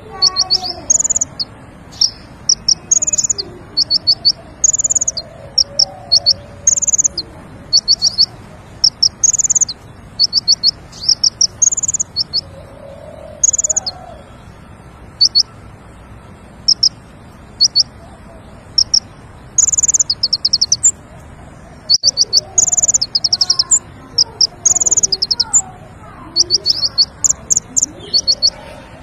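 Konin bird calling: short, high bursts of four to six quick chirps, repeated every second or so, with fainter lower chirps underneath.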